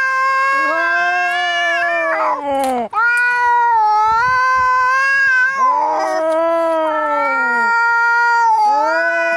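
Angry cats caterwauling: long, drawn-out, wavering yowls, two voices overlapping at different pitches. There are brief breaks about three seconds in and again near six seconds.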